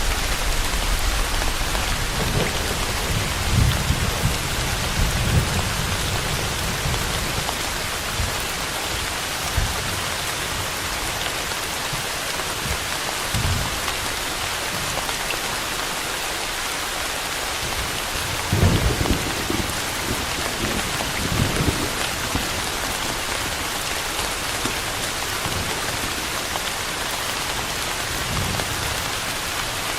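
Steady heavy rain falling, with low rolls of thunder rumbling a few seconds in and again about two-thirds of the way through.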